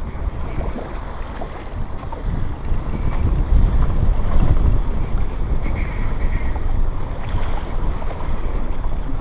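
Strong wind buffeting the microphone in a low rumble, gusting harder around four seconds in, with waves washing against a small boat.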